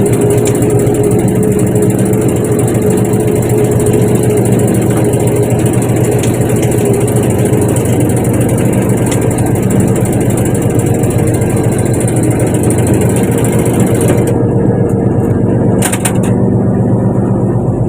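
Fishing boat's engine running steadily at a constant speed. A hiss over the engine drops away about three-quarters of the way through.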